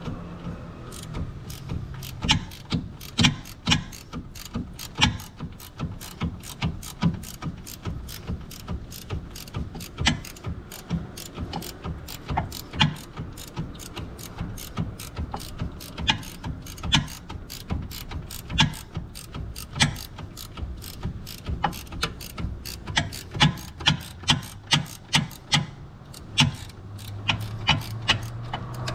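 Hand ratchet wrench clicking in irregular runs of sharp clicks.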